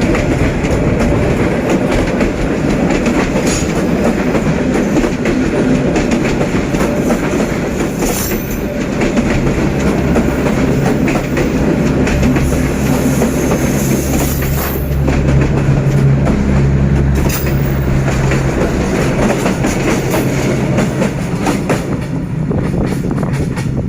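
Passenger train hauled by a D19E diesel-electric locomotive running along the track: a continuous rumble with wheels clicking over the rails. A low engine drone swells in the middle and then eases off.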